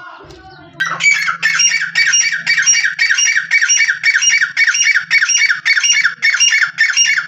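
Teetar (francolin) calling loudly, starting about a second in with a fast run of repeated shrill phrases, about two a second.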